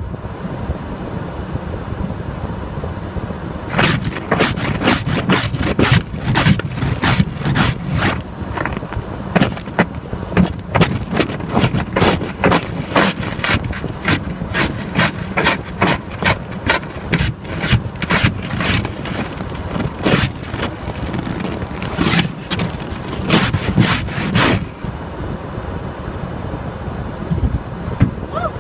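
Ice scraper scraping frost off a windshield in quick, irregular strokes for about twenty seconds, over the steady low hum of the idling truck and its defroster.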